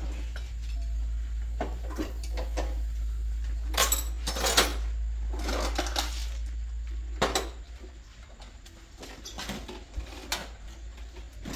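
Hard objects clattering and clanking in a handful of separate bursts, the loudest a few seconds in, over a steady low hum that drops away partway through.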